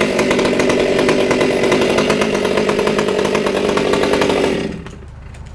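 Chainsaw running at full throttle through a cut, then dropping off to a low idle rumble near the end.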